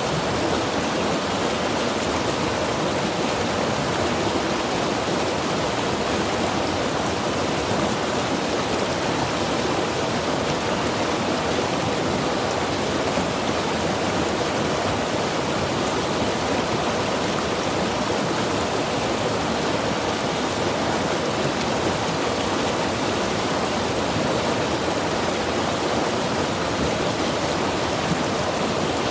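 Mountain river rushing steadily over rocks, an even unbroken roar of water.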